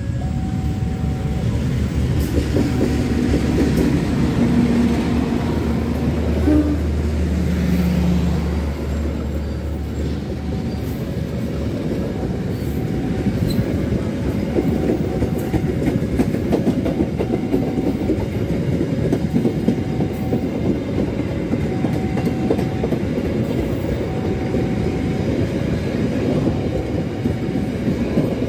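Passenger train speeding past at night, with a long, loud run of wheels clattering over the rails. The locomotive's low engine drone stands out in roughly the first third.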